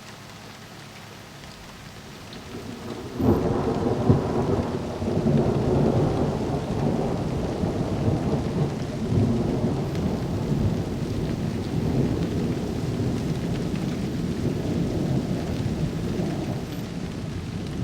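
Rain falling during a night thunderstorm, then about three seconds in a loud crack of thunder breaks into a long, deep rolling rumble that slowly eases off.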